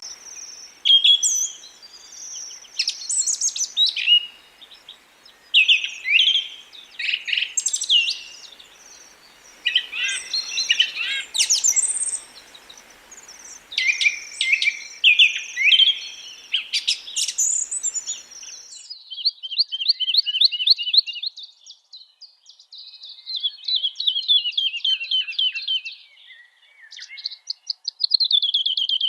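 Birds chirping and singing: a busy mix of short, sharp chirps and whistles over a faint hiss, then, after the hiss cuts out abruptly about two-thirds of the way through, several rapid trills of fast repeated notes.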